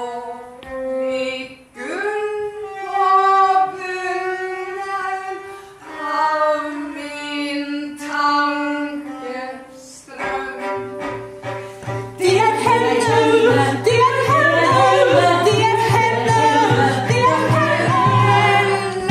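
Singing from the opera: a single voice holding long, sliding notes, then from about ten seconds in a fuller group of voices over a steady low drone, louder.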